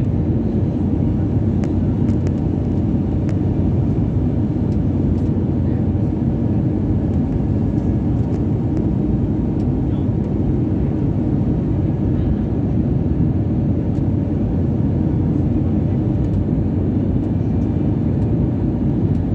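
Steady low rumble of an airliner heard from inside the cabin, even and unchanging throughout.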